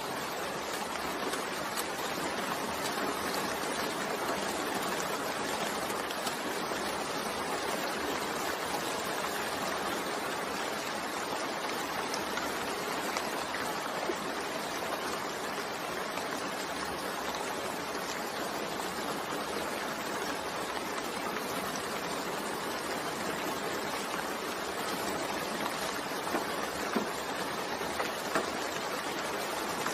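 Steady rain falling, an even hiss of many drops, with a few brief louder drip ticks near the end.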